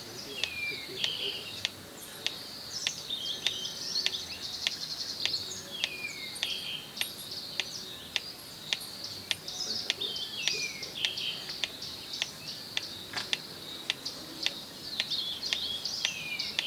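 Wild birds calling: repeated downward-sliding whistles and busy chirping, over a steady high insect hum and evenly spaced sharp ticks about twice a second.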